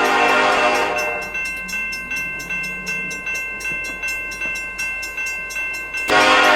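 Train horn sounding, several tones together, cutting off about a second in. A bell then rings at an even pace of about two and a half strikes a second, and the horn blasts again near the end.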